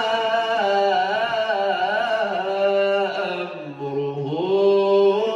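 A man's voice chanting Qur'an recitation in melodic tajweed style, drawing out long held notes with ornamented pitch bends. About three and a half seconds in the pitch dips low, then climbs back up.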